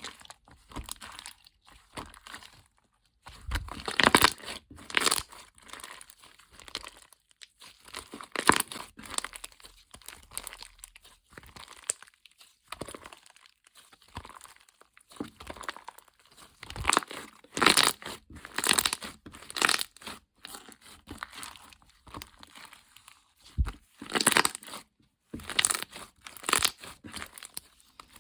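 Crinkling, rustling and tearing of wrapping material in irregular bursts, with louder crackles about four and eight seconds in and a busier stretch near the middle.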